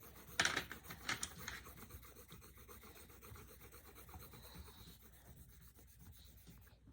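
Coloured pencil shading on paper: scratchy rubbing strokes, a few louder ones in the first second and a half, then softer steady scratching.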